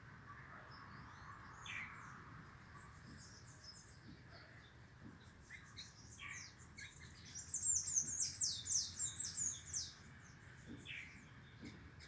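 A flock of small birds chirping: scattered short, high chirps that thicken past the middle into a dense run of rapid chirping lasting about two seconds, then thin out again.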